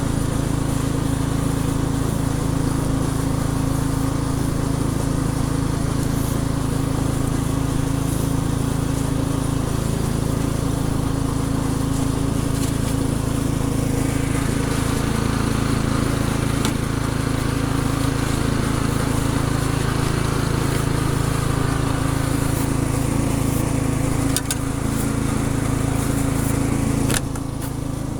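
An engine running steadily at an even pitch, which drops a little in level near the end.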